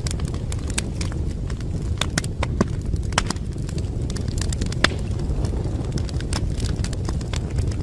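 Wood fire crackling in a fireplace: quick irregular pops and snaps over a steady low rumble of burning, with one sharper pop about five seconds in.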